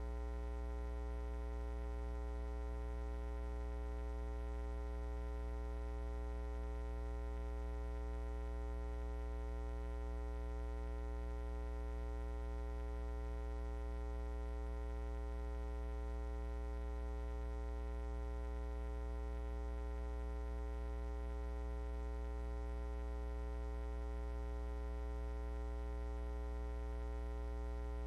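Steady electrical mains hum: a low, unchanging buzz with many overtones.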